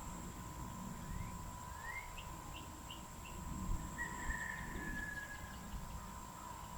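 Wild birds calling: a couple of short rising chirps, a quick run of higher short notes, then one longer, slightly falling call about four seconds in. Underneath is a steady high hum and a low outdoor rumble.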